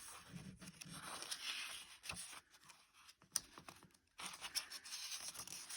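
Pages of a hardback picture book being handled and turned: quiet paper rustling with a few light clicks and taps.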